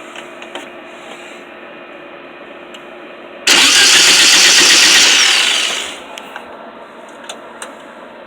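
Starter cranking a VW 1500cc air-cooled flat-four engine once for about two and a half seconds, beginning about three and a half seconds in and winding down at the end. The engine does not fire: the ignition power was not hooked up, so there is no spark.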